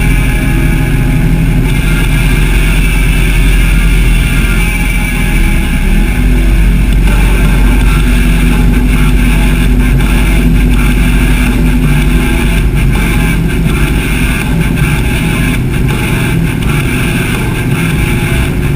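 Harley-Davidson V-twin engine running as the motorcycle is ridden, a loud steady rumble whose note shifts somewhat about halfway through.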